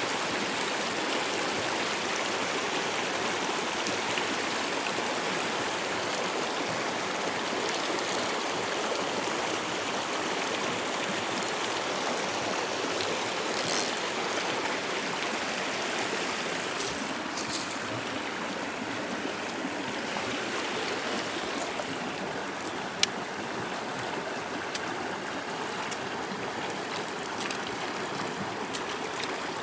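A mountain stream rushing steadily over rocks. A few brief clicks come in over the second half, one of them sharper near the end.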